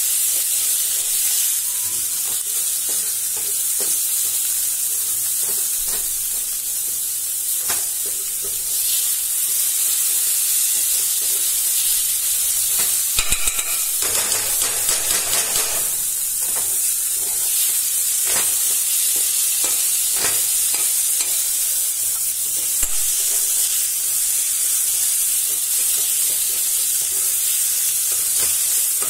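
A crumbly paste sizzling in hot oil in a kadai while a steel ladle stirs and scrapes it against the pan, being fried until golden. The scraping gets busier and louder for a few seconds about halfway through.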